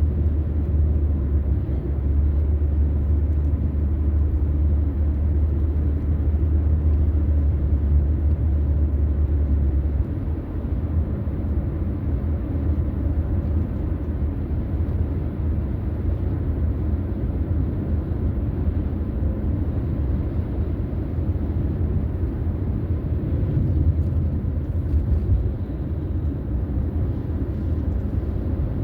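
Car driving along a road: a steady low rumble of tyre and engine noise. The deepest part of the rumble drops away about ten seconds in.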